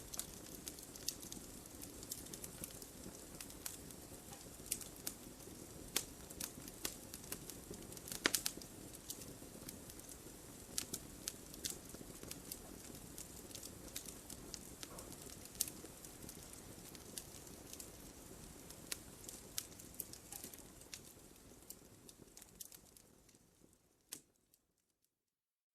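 Wood fire burning in a fireplace: a steady low rumble of flames with frequent sharp, irregular crackles and pops. It fades out a few seconds before the end to a brief silence.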